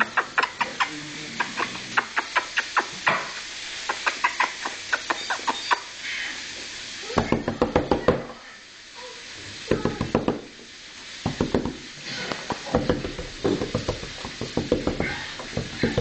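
Quick runs of light taps and clicks, several a second, broken by short lulls, with heavier thumps from about seven seconds in: a pet bird hopping about and pecking.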